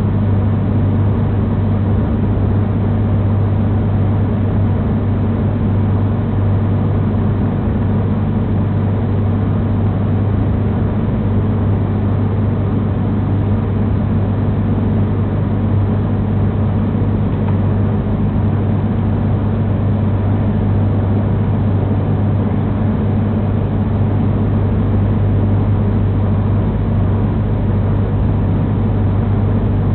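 Steady drone of a diesel multiple-unit passenger train heard from inside the carriage, with a strong low hum, as the train draws into its terminus platform.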